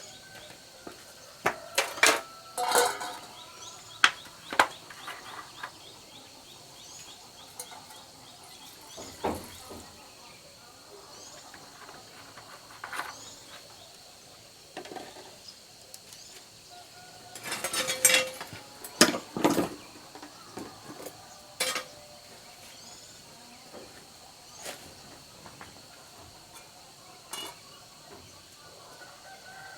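Metal tools and small metal parts clinking and knocking during hand repair work: scattered sharp knocks, clustered about two seconds in and again around eighteen to twenty-two seconds in. Insects drone steadily in the background.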